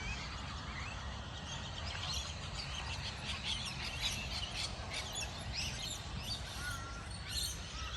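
Many small birds chirping and calling in quick scattered notes, over a steady low rumble.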